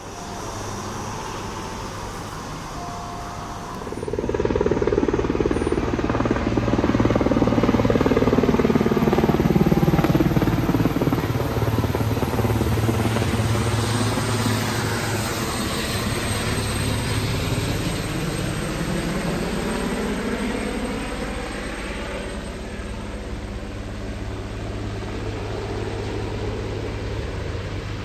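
HMX-1 Marine Corps helicopter running close by with a steady rotor beat. It grows sharply louder about four seconds in, is loudest through the middle and eases slightly toward the end.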